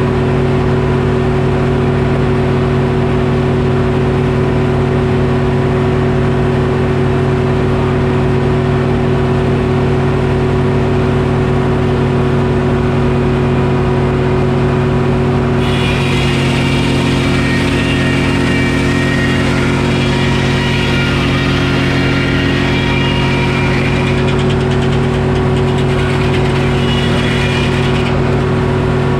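Detroit Diesel engine driving a Frick circular sawmill, running steadily. About sixteen seconds in, a higher whine joins it as the blade cuts through the oak log, and it stops about a second before the end.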